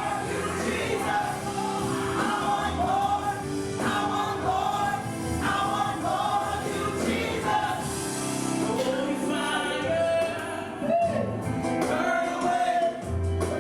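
Gospel music: a choir and solo voices singing over a steady instrumental accompaniment.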